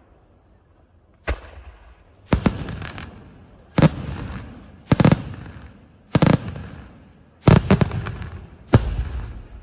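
Aerial firework shells bursting overhead in quick succession, starting about a second in, roughly one every second and a quarter. Each is a sharp bang followed by a fading rumble, and some come as quick double or triple reports.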